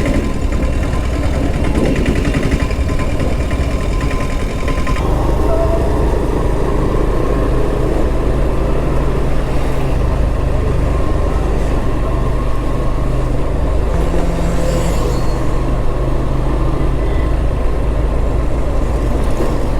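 Motorcycle engine running steadily under way, with wind and road noise over the microphone.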